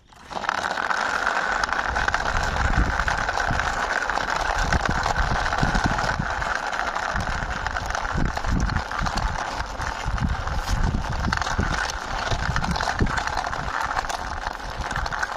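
A small plastic toy car pushed by hand across a surface: its wheels give a steady rolling whir with irregular low bumps.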